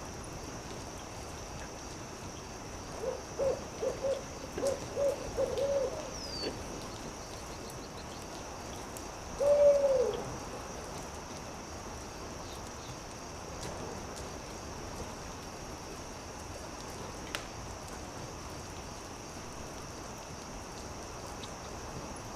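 An owl hooting: a quick run of about eight short hoots, then a single longer, louder hoot that drops in pitch at its end. Behind it, a steady hiss with a few faint pops of campfire crackle.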